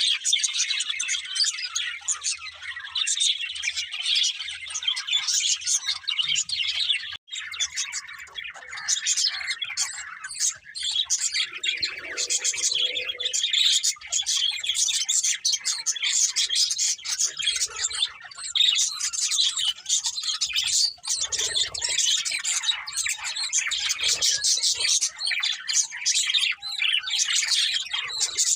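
Several budgerigars chattering, with a steady stream of high, overlapping chirps, warbles and squawks, broken only by a moment's gap about seven seconds in.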